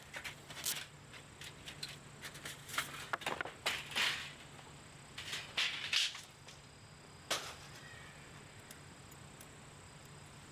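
Wood fire crackling, with a quick irregular run of sharp pops and snaps that thins out after about seven seconds.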